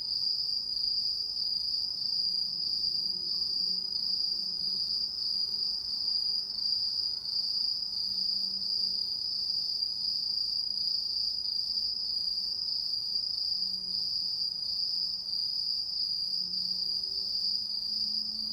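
Lively chorus of insects chirping together in one continuous, high-pitched trill.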